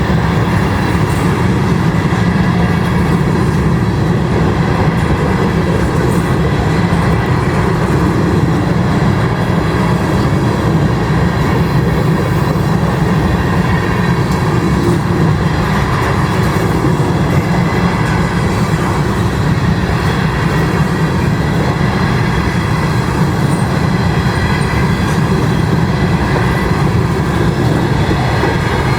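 Freight train of covered grain hopper cars rolling past, a steady rumble of steel wheels on rail.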